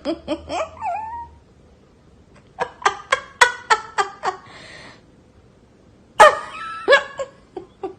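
A cat meowing in short, quick calls: a few at the start, a run of about eight some two and a half seconds in, and another run near the end.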